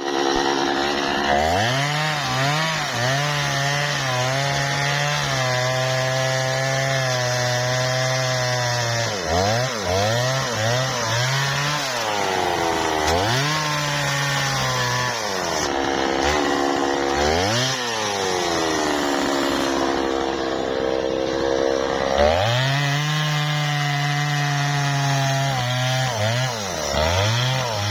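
Two-stroke chainsaw running at high revs while cutting wood. The engine note sags and recovers in long swells as it works through the cut, and it is blipped up and down in quick revs several times.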